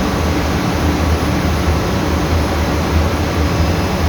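Ship's emergency air compressor running steadily, filling the emergency air bottle: a loud, even machine noise with a deep pulsing hum.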